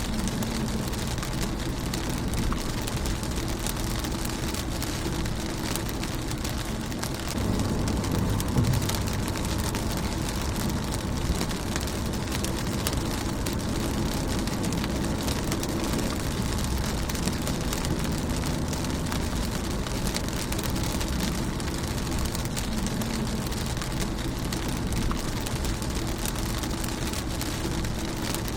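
Steady rain falling on a car's windshield: a dense hiss of many small drop ticks over a low rumble, swelling a little about eight seconds in.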